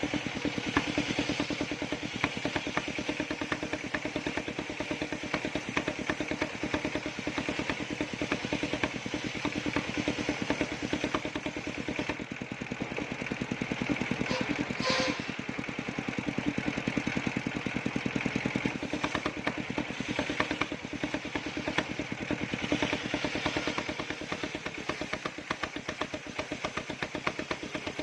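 Engine of a circular sawmill running steadily, with a fast, even beat. A brief higher tone cuts through about halfway.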